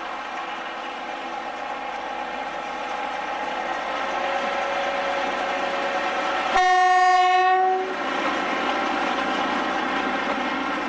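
A railway locomotive's engine running, its pitch rising slightly, with one loud horn blast of a little over a second near the middle.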